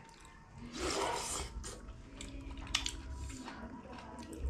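Eating sounds: chewing and food handled by hand, with a rustling noise about a second in and a few light clicks.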